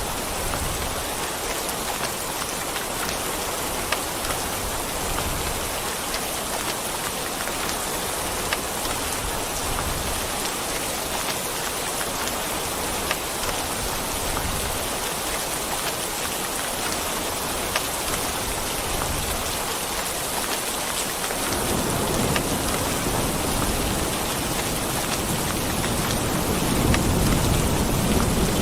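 Steady rain falling, with scattered sharp drops standing out. About three quarters of the way in, a low thunder rumble sets in and grows louder near the end.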